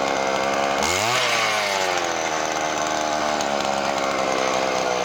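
Small two-stroke engine of a handheld power tool running at high revs. It revs up sharply about a second in, then its pitch slowly drops.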